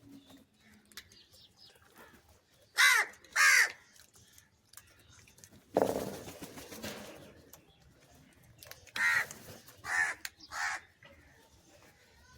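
Crow cawing: two loud caws in quick succession about three seconds in, then three more caws near the end. Between them a sudden noisy rush starts and fades over a second or so.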